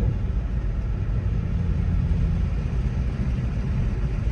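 Car driving with a steady low engine and exhaust rumble. The exhaust has deer remains caught under it after the car ran over a dead deer, and the driver suspects an exhaust leak that sounds only while the car is moving.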